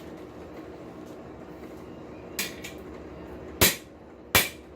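Two loud, sharp metal clanks about three-quarters of a second apart, each ringing briefly, with a lighter knock a second before them: hand tools or a hammer striking steel at a blacksmith's anvil, over a steady low hum.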